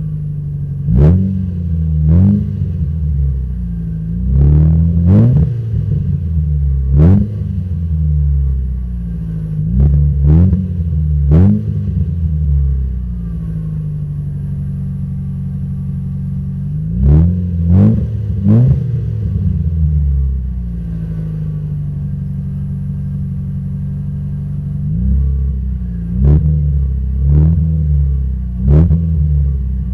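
Proton Satria 1.3-litre four-cylinder engine idling through a straight-pipe exhaust and revved in a series of short, sharp throttle blips that rise and drop straight back to idle. The blips come in groups, with a stretch of steady idle in the middle.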